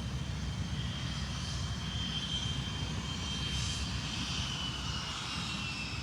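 Cessna Citation I's twin Pratt & Whitney JT15D turbofans running with a steady high-pitched whine that sags slightly in pitch near the end, over a low rumble.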